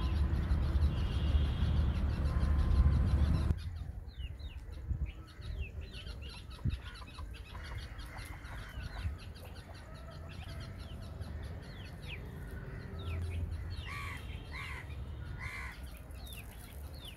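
A low rumble that stops abruptly about three and a half seconds in, then many small birds chirping, with three louder arched bird calls near the end.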